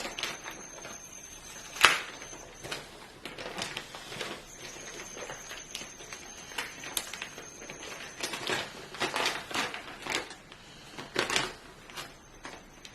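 Handling noises as a motherboard is taken out of its cardboard box: scattered clicks, taps and rustles of packaging, with one sharp knock about two seconds in.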